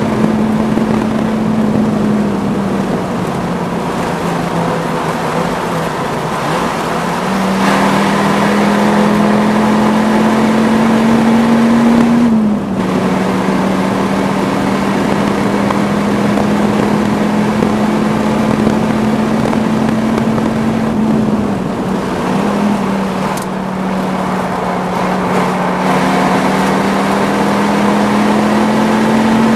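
Dodge Viper X10's V10 engine pulling hard at speed, heard from inside the cabin over wind and tyre noise. The engine note climbs slowly, drops suddenly about twelve seconds in, dips again a little past twenty seconds, then rises again near the end.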